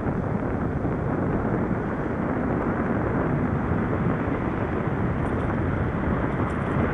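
Steady rush of wind on the microphone, with tyre and road noise from a bicycle being ridden along.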